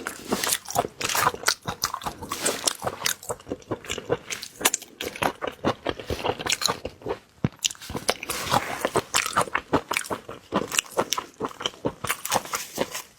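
A person biting and chewing crunchy food in a steady, irregular stream of crisp crackles and crunches.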